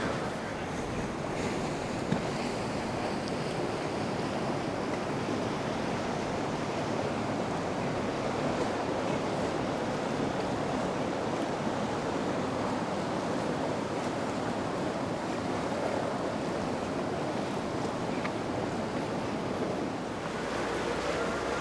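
Steady rushing of water and wind, even throughout with no distinct events.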